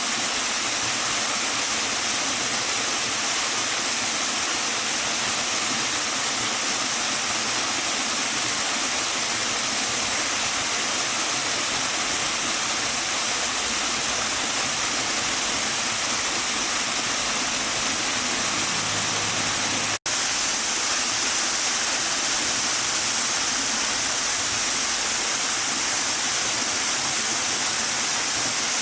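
Waterfall: a steady rush of falling water, with a split-second gap about two-thirds of the way through.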